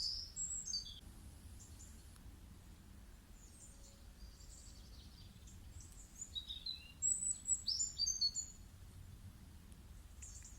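Birds chirping in a recorded nature soundscape. A quick run of chirps stepping down in pitch comes at the start, and a longer, louder flurry of chirps comes about six to eight and a half seconds in, over a faint steady low hum.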